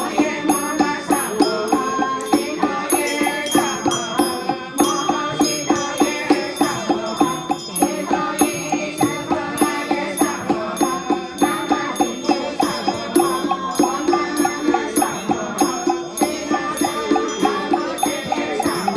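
Temple ritual music with a steady beat of struck percussion, about two to three strikes a second, under a melodic line with bell-like ringing.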